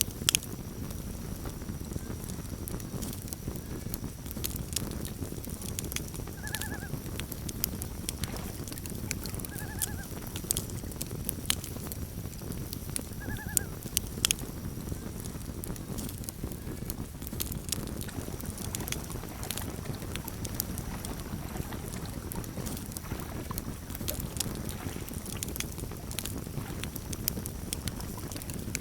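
Campfire crackling steadily with a low rumble of the burning fire, and three short, rising-and-falling calls of a loon about seven, ten and thirteen seconds in, with another starting right at the end.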